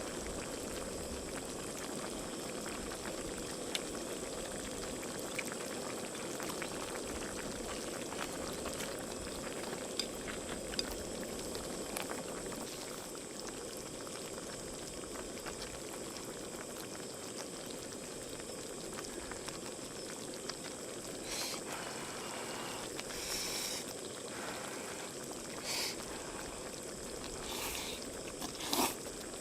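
Liquid boiling steadily, with scattered small pops and a few short hisses near the end.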